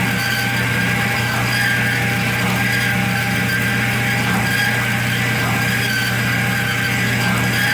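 Power tool cutting through a thick steel angle (6×8×½ inch): a steady running hum with a constant high-pitched whine over it.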